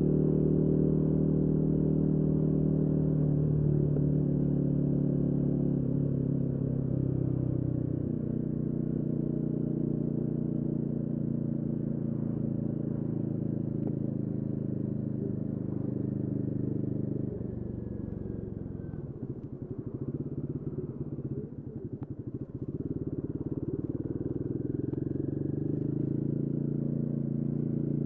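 Royal Enfield Guerrilla 450's single-cylinder engine running with a steady note. The pitch shifts down about eight seconds in, and the sound drops quieter and rougher for a few seconds past the middle before picking up again.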